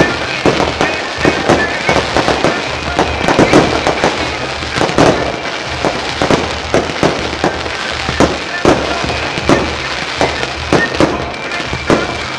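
Fireworks shells bursting in quick, irregular succession: many sharp bangs, several a second, with crackling between them.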